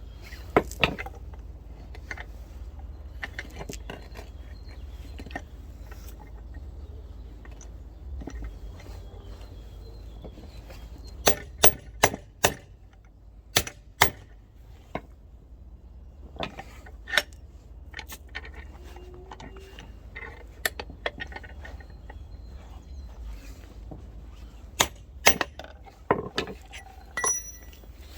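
Steel tools and a removed wheel nut clinking and knocking as they are handled: scattered sharp metallic clicks, in clusters about a third of the way in, halfway through and near the end.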